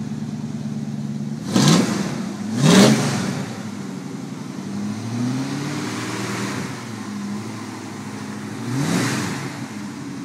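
1953 Ford F100 pickup's engine idling, then revved through its exhaust in short throttle blips: two sharp revs close together about two seconds in, a milder one around five seconds, and another near nine seconds, each falling back to idle.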